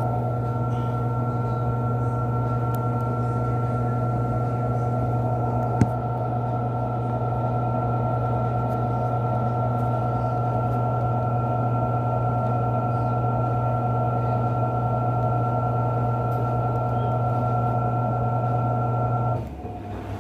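Panasonic 14 kg top-load washing machine running mid-cycle, its drain pump giving a steady hum with a single brief click about six seconds in; near the end the pump switches off abruptly and the sound drops away.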